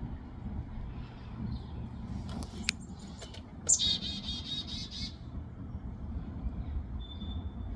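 A small bird calls a rapid trill of high repeated notes lasting about a second and a half, about halfway through, with a brief high whistle near the end. Under it runs a steady low rumble like traffic.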